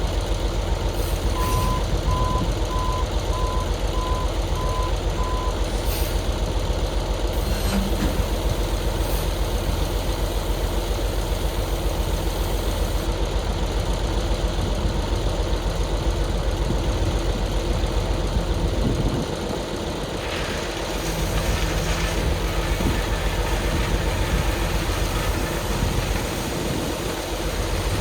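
Dump truck engine running steadily, with its backup alarm beeping about seven times at an even pace in the first few seconds as the truck reverses.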